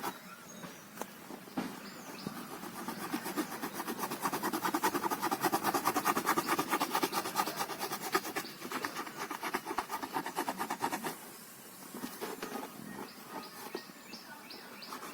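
Utility knife sawing through a cardboard box, a fast run of rasping strokes that stops about eleven seconds in, followed by a few light scrapes and clicks.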